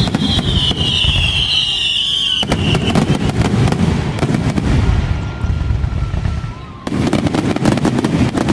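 Fireworks finale: a dense, continuous barrage of crackling reports and bangs from silver crackle shells, surging again about two and a half seconds in and near the end. A high whistle sounds over the first couple of seconds.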